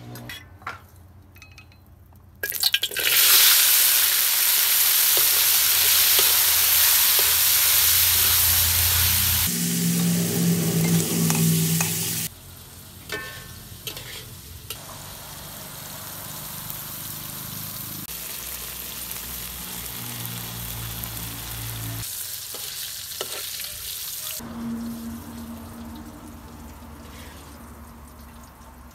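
Chopped vegetables frying in hot oil in a steel wok. A loud sizzle starts suddenly about two and a half seconds in as the food hits the oil and stays loud for about ten seconds, then settles to a quieter steady sizzle. A metal spatula stirs the food and clicks against the wok.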